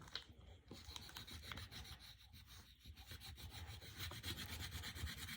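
Coloured pencil rubbing back and forth on paper in quick, faint scratchy strokes while colouring in.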